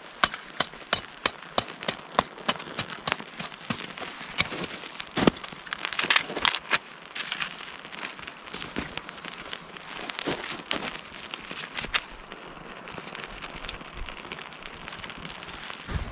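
Dry kindling crackling and snapping in sharp, irregular cracks, several a second. The cracks thin out after about eight seconds, leaving a soft hiss.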